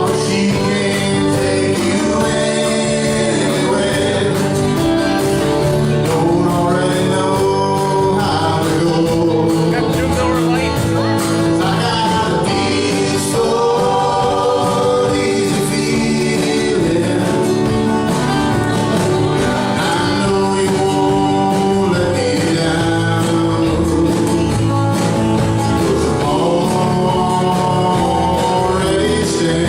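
Live band playing a song, with lead singing over a full backing of drums and other instruments.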